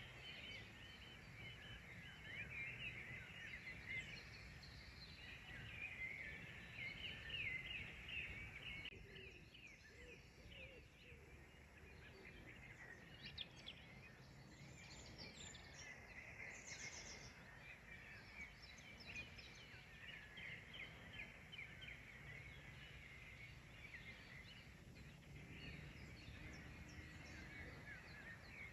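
Faint chorus of small songbirds chirping and twittering, many short calls overlapping, over a low steady background rumble.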